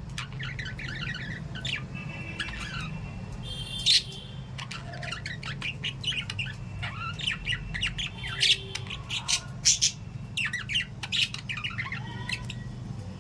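Caged lovebirds and budgies chirping and squawking in quick, overlapping calls, with a few sharp, loud squawks standing out. A steady low hum runs underneath.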